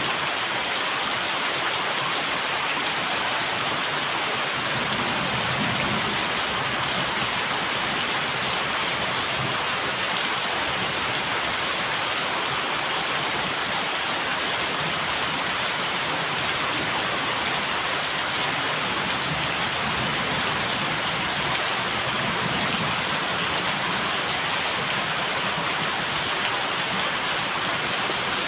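Steady rain, an even hiss falling without a break.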